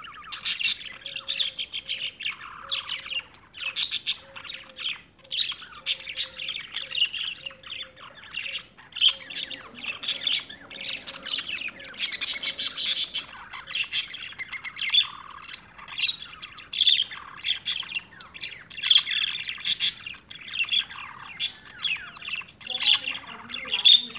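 Small birds chirping continuously, with many short calls overlapping.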